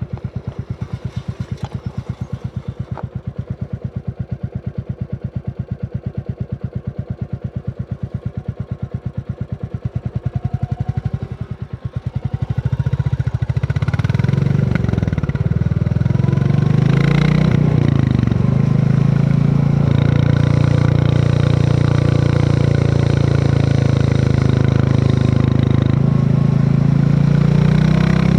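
Royal Enfield Classic 350's single-cylinder engine ticking over with an even, slow thump. About twelve seconds in it pulls away, revving up and down through the gears, then settles into a steady cruise.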